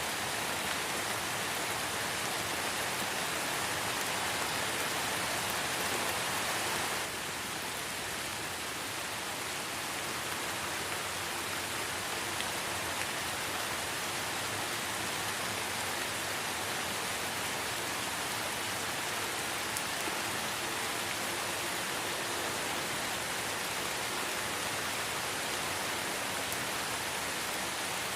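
Light rain falling steadily in a forest, a dense even hiss of drops, with no single drop standing out. It eases slightly in level about seven seconds in.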